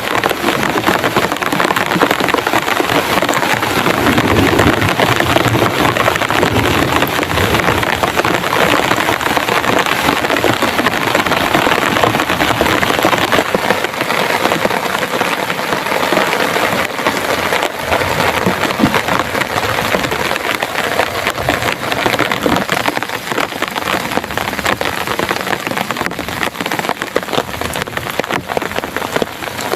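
Heavy rain hitting a plastic tarp: a dense, steady patter of many drops.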